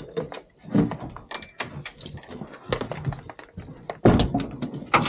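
Small dogs getting excited by a door: a string of clicks, knocks and rattles, a short dog whine about a second in, and a louder knock about four seconds in.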